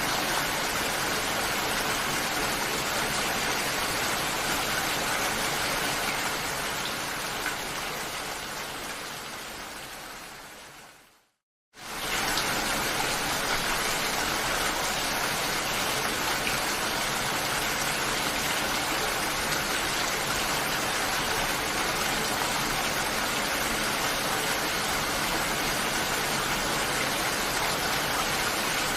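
Steady rain falling. Less than halfway through it fades away into a brief moment of silence, then starts again suddenly at full level.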